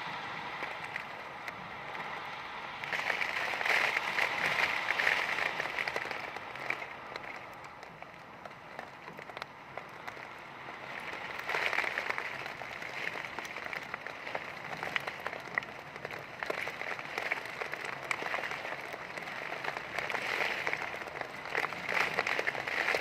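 Heavy rain pouring down in a dense patter, swelling and easing in waves as gusts drive it, louder about three seconds in, again halfway through and near the end.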